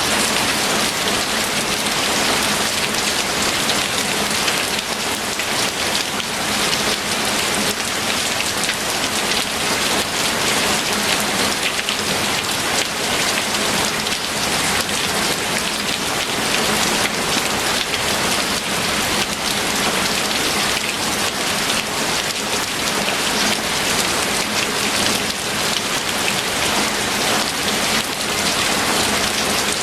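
Steady rain falling on a hard surface, a dense even patter of drops with no let-up.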